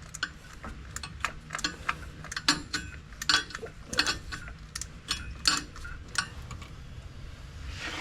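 A 1/4-inch drive ratchet with a 10 mm socket clicking in short, irregular strokes as a water pump bolt is worked loose; the clicks stop about six seconds in.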